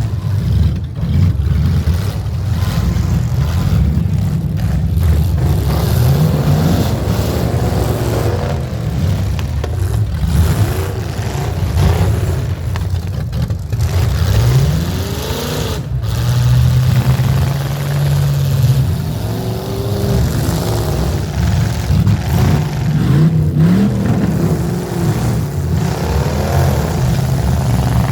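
Several demolition derby engines running together, revving up repeatedly in rising surges, with one engine holding a steady pitch for a few seconds in the middle.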